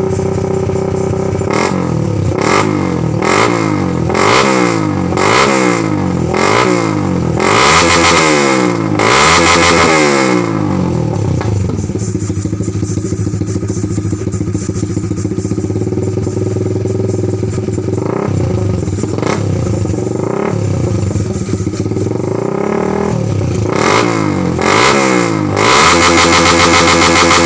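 Honda Sonic 150R single-cylinder engine through an aftermarket racing exhaust, blipped repeatedly in quick revs for about ten seconds. It then settles to a steady idle, and a few more revs come near the end.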